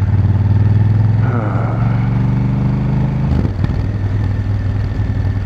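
Honda Africa Twin CRF1000L's parallel-twin engine running steadily as the bike is ridden. Its note changes about three and a half seconds in.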